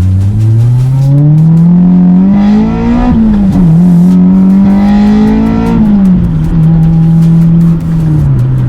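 Toyota MR2 Spyder's swapped-in 2ZZ-GE inline-four engine driving under load during break-in: the revs climb steadily for about three seconds, dip briefly at a gear change, hold steady, then fall about six seconds in and settle into a lower steady drone.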